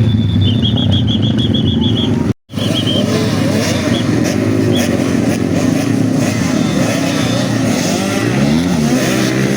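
Several motocross dirt bikes revving on the track, their engine notes rising and falling and overlapping as they accelerate and ease off. The sound cuts out completely for a moment about two seconds in.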